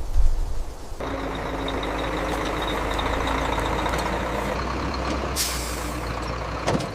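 Heavy truck engine running steadily after a low thump at the start, with a short sharp air-brake hiss about five and a half seconds in.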